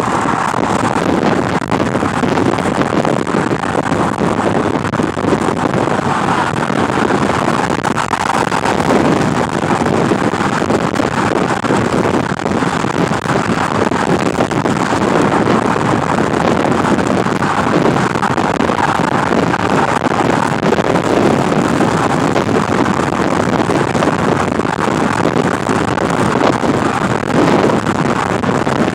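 Loud, steady wind noise rushing and buffeting over the microphone inside a car.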